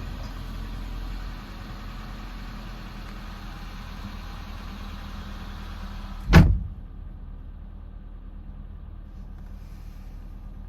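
Mitsubishi Galant Fortis's 4J10 1.8-litre inline-four running steadily at idle. About six seconds in there is a single loud slam, as of a car door or hood being shut. After it the engine sound is slightly quieter and duller.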